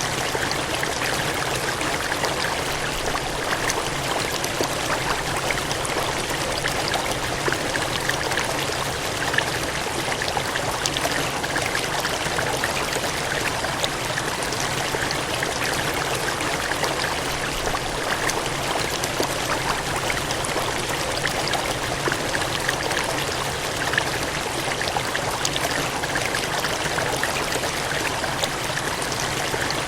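Gushing water running in a steady, unbroken rush, with small splashes flecked through it.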